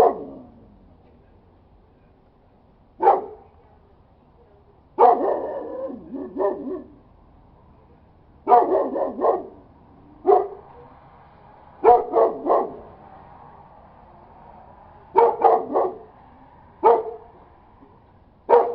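A dog barking loudly in short bursts of one to four barks with pauses between them, including one longer, drawn-out bark about five seconds in.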